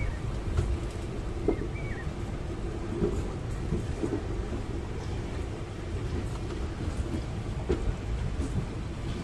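Passenger train coaches rolling along the track, heard from an open doorway: a steady low rumble with occasional short knocks from the running gear.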